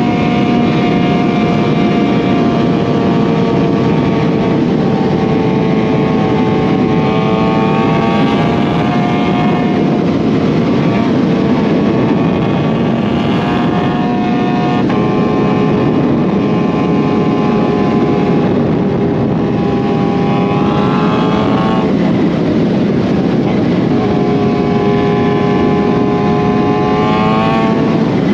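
Supercharged inline-four of a 2020 Kawasaki Z H2, breathing through an SC Project CRT exhaust, running under way with heavy wind rush. Its pitch mostly holds or sags slowly, then climbs twice under acceleration, a few seconds apart, near the end.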